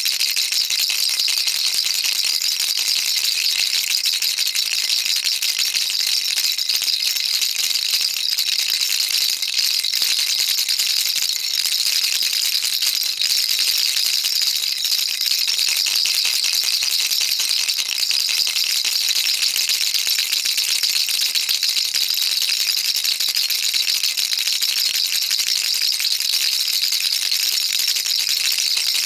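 Baby rattle shaken continuously, a dense unbroken patter of small beads clicking against the shell, bright and hissy, without pauses.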